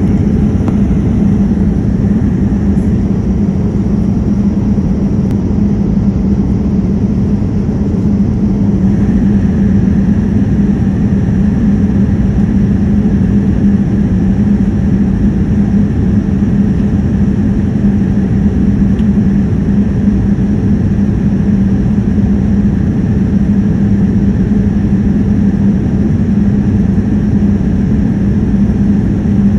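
Airplane cabin noise in flight: the steady rush of engines and air with a low, unbroken drone. A faint higher steady tone joins about nine seconds in.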